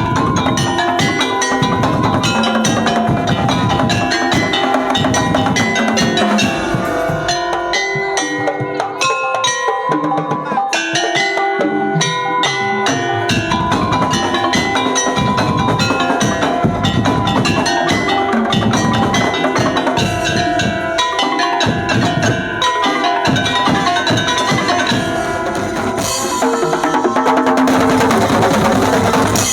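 Madurese traditional ensemble playing: gendang hand-drum strokes drive a fast rhythm under ringing, tuned metal percussion. The music gets louder and brighter near the end.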